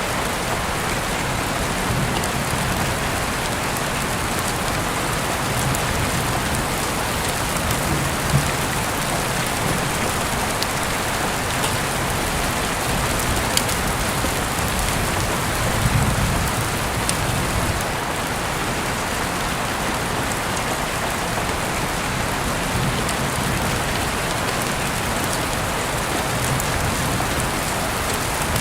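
Heavy rain falling steadily outside an open window, a dense hiss with scattered sharper drop ticks. About sixteen seconds in, a brief low swell rises under it.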